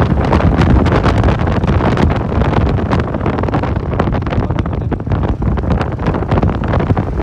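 Heavy wind buffeting the microphone over the running noise of a moving vehicle, as when riding a motorcycle; a loud, unbroken rush with crackling gusts.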